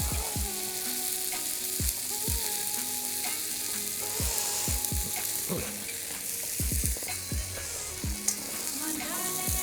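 Chicken thigh sizzling on a thick iron griddle over a Swedish torch log fire: a steady frying hiss with frequent short pops.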